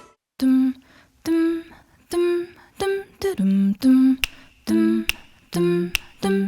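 A lone voice humming a melody unaccompanied, in a string of short separate notes with brief gaps between them. This is a break in the backing music.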